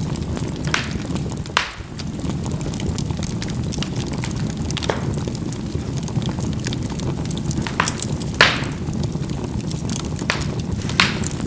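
Charcoal burning in a fireplace: a steady low rumble of fire with sharp pops and crackles as the coals burst, about seven at irregular intervals. The loudest pop comes near the middle.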